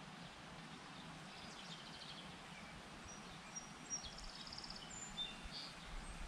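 Faint birdsong: short high chirps and trills over a steady low background hiss, with a few light clicks in the second half.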